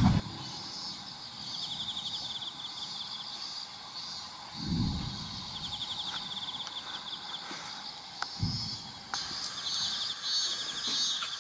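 Insects trilling: short, high, rapidly pulsed trills that repeat about every four seconds. Two brief low thuds come about five and eight seconds in.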